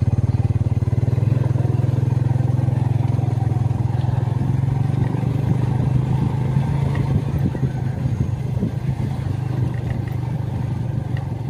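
Honda XRM125 Fi's single-cylinder four-stroke engine running steadily under way, with a few light rattles. It eases off a little in the second half.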